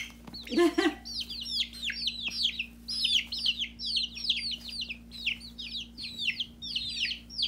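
Baby chicks peeping: a dense stream of short, high, downward-sliding peeps from several chicks at once, a few peeps a second.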